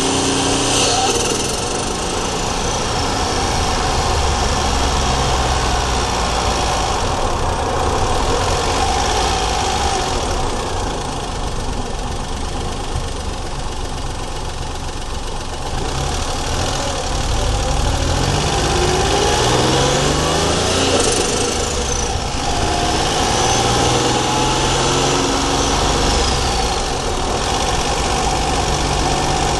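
Daihatsu Charade GTti's 1.0-litre turbocharged three-cylinder engine running under load, heard close up from the engine bay. The revs climb and drop and ease off for a few seconds in the middle, and a high turbo whistle falls away twice, near the start and again after the revs peak about three quarters of the way in.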